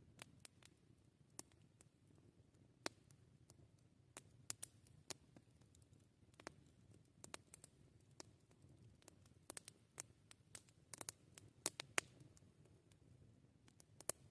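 Wood campfire crackling: irregular sharp pops and snaps, some in quick clusters, with the loudest few snaps about eleven to twelve seconds in, over a faint low background.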